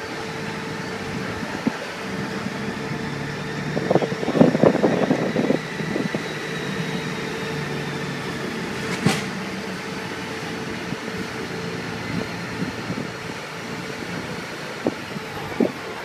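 Motorcycle engine running steadily with a constant hum, with a louder burst of noise about four seconds in and a sharp click about nine seconds in.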